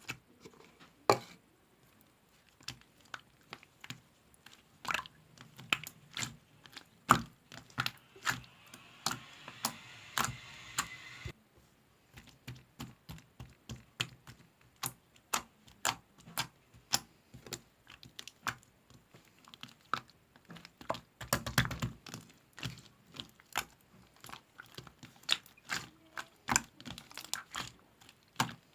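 Gold-marbled slime being squished and poked by hand, making an irregular run of sharp clicks and pops. A denser crackling stretch comes about eight to eleven seconds in, and a louder cluster a little past twenty seconds.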